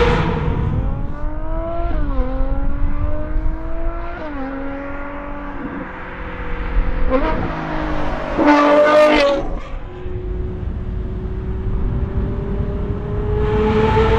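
Ferrari 812 Superfast V12 with a Novitec exhaust accelerating through the gears. Its pitch climbs and drops back at each of several quick upshifts, there is a loud hard-throttle burst about two-thirds of the way in, and then a long steady climb in revs.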